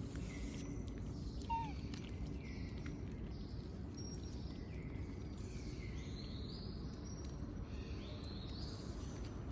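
A monkey gives one short, high, falling cry about a second and a half in, over steady low background noise, with faint high chirps scattered through.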